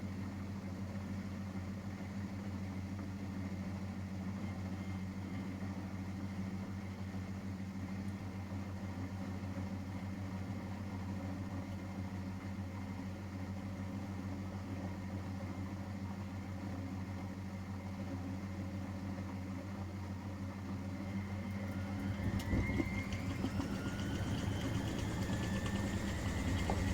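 Miele Professional WS5436 washing machine running with a steady low hum. About 22 s in, it grows louder and a rising motor whine sets in as the drum speeds up.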